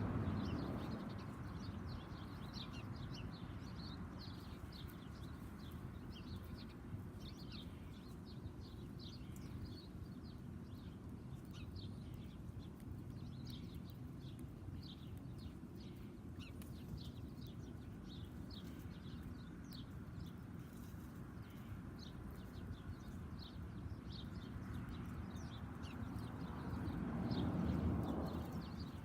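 Small backyard birds chirping, a steady run of short, high chirps. Underneath is a low steady rumble that swells louder near the end.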